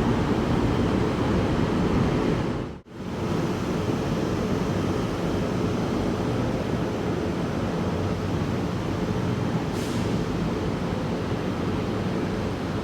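Steady vehicle rumble, dropping out sharply for a moment about three seconds in.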